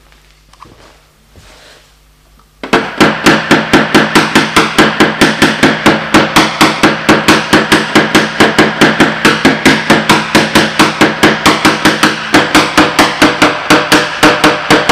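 Rapid, even hammer taps, about four to five a second, striking a car body panel whose sheet metal rings with each blow. This is paintless dent repair tapping down high spots with a knockdown tool. The tapping starts a few seconds in, with a brief pause near the end.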